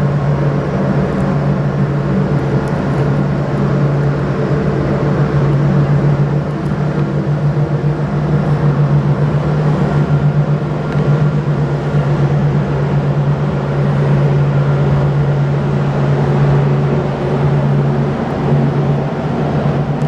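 Aircraft engine running: a steady low hum over a broad rushing noise.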